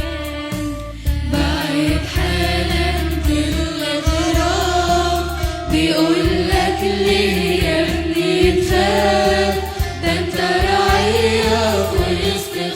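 Choir singing an Arabic Christian hymn over instrumental accompaniment with a steady low bass.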